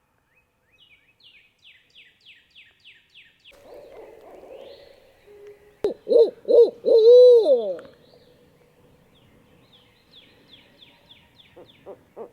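Barred owl hooting: a loud run of bending, rising-and-falling hoots a little past the middle, with more hoots building up near the end. A songbird's quick series of high, falling notes comes before and after the owl.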